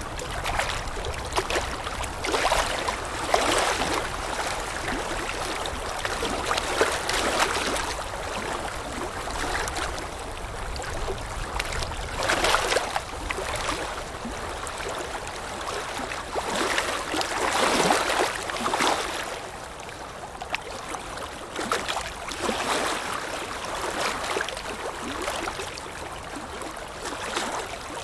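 Water lapping in irregular small splashes that swell every second or two, with wind rumbling underneath.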